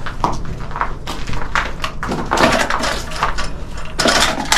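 Irregular scuffing, rustling and knocks, the loudest about two and a half seconds in and again near the end.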